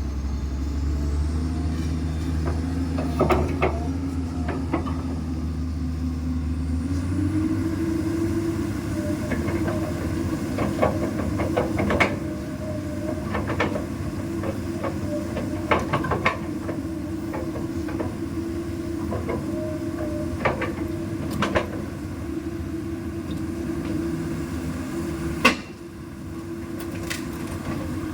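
Komatsu PC200 excavator's diesel engine running steadily, its pitch stepping up about seven seconds in and then holding, with scattered sharp metallic knocks and clanks throughout.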